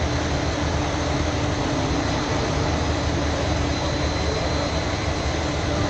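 A large engine running steadily: an even, unbroken rumble with a steady hum.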